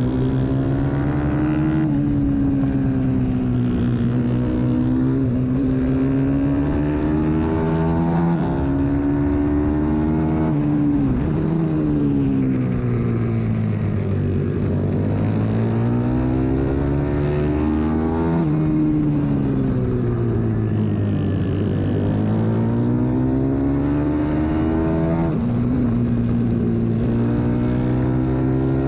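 Pit bike's 125cc engine heard on board at race pace, revving up and down continuously. Its pitch climbs, then drops sharply at each gear change, and falls away in long stretches as the bike slows for corners.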